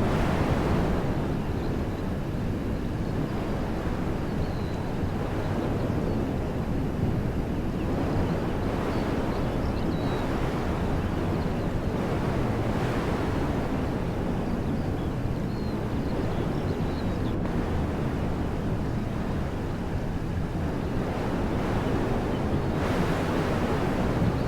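Wind blowing through trees: a steady rushing noise that swells in gusts every several seconds, with a few faint high bird chirps.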